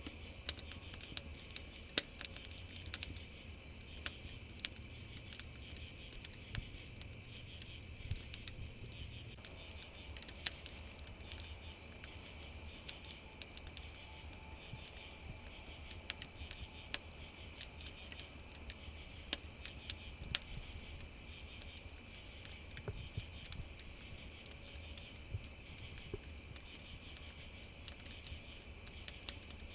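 Campfire crackling, with irregular sharp pops and a few louder snaps, over a steady chorus of crickets chirping.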